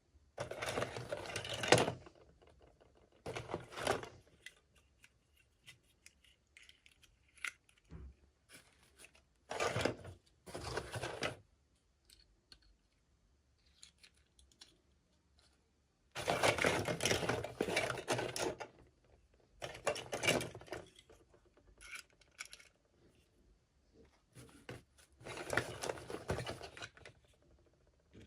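Toy packaging being handled and torn open in repeated bursts of rustling and tearing, each lasting a second or two, with short pauses between them.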